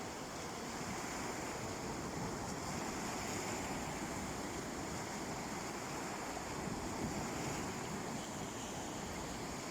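Sea waves washing steadily onto a beach, a continuous surf wash with slight swells in level.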